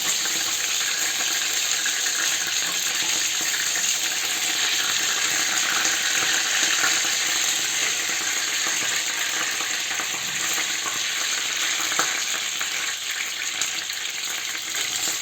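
Chicken pieces frying in a pan of hot olive oil mixed with vegetable oil, a steady sizzle.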